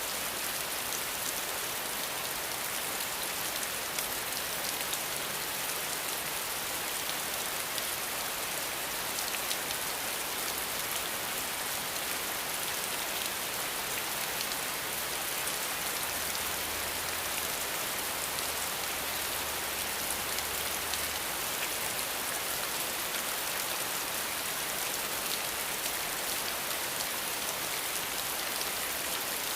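Steady rain falling: an even, dense hiss with many small drop ticks scattered through it, and no thunder.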